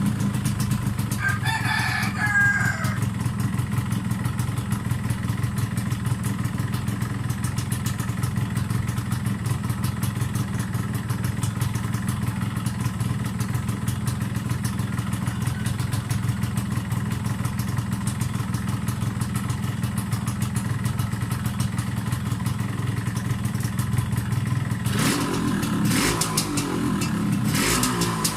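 Yamaha RXZ 135 two-stroke single-cylinder engine idling steadily. A rooster crows once about a second in, and near the end the engine gets louder and rougher for a few seconds.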